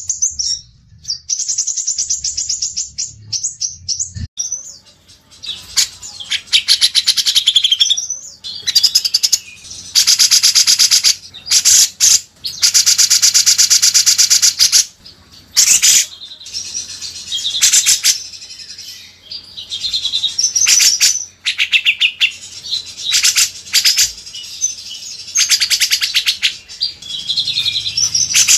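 Songbirds singing fast, high-pitched chattering phrases and trills of rapidly repeated notes, in runs of a second or more separated by short pauses.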